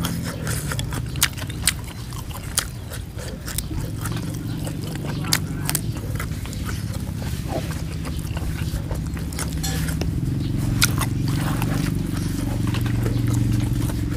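A person chewing and crunching fresh herbs and chillies, with many short wet clicks and smacks from the mouth, over a low steady hum that swells slightly after about ten seconds.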